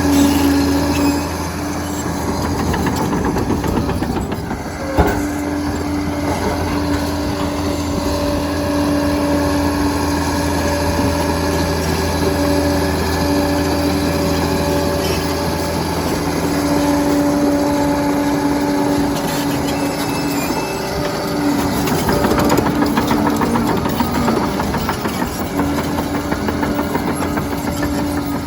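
Liebherr PR 746 crawler dozer working, its diesel engine running steadily under load with a steady drone and a clatter that resembles its steel tracks. There is one sharp knock about five seconds in.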